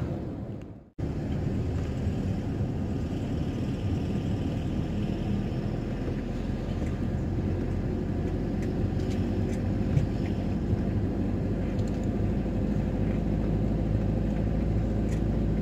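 Camper van driving: steady engine and road rumble heard from inside the cab, after a brief drop-out about a second in.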